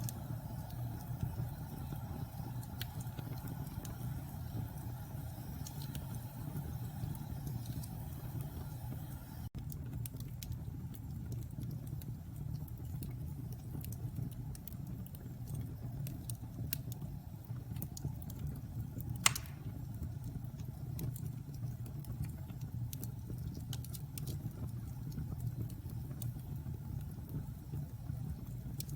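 Log fire burning in a fireplace: a steady low rumble of flame with scattered small crackles, and one loud sharp pop about two-thirds of the way through.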